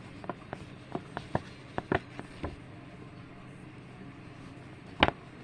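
A quick run of light clicks or taps in the first two and a half seconds, then a single louder click about five seconds in.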